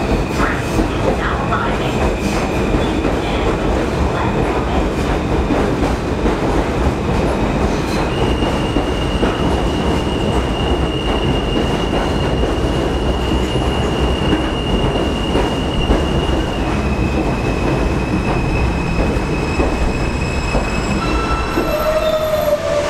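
Steel-wheeled rail train running on the tracks with a steady rumble and a thin high wheel squeal that shifts pitch a couple of times. A short wavering tone sounds near the end.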